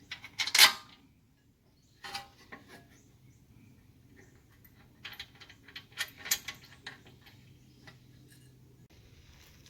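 Irregular metallic clicks and clinks of bolts and hand tools being worked while the rear brake caliper bracket is bolted back on. There is a loud cluster about half a second in, a few lighter clicks after two seconds, and a busier run of clicks from about five seconds in.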